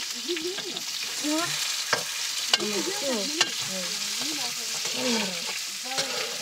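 Potatoes sizzling as they fry in a wok over a wood fire, stirred with a metal ladle that clinks sharply against the pan a few times.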